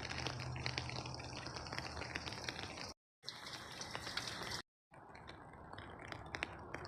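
Rain falling, with many close drops ticking and a low steady hum under the first few seconds. The sound cuts out to dead silence twice, briefly, near the middle.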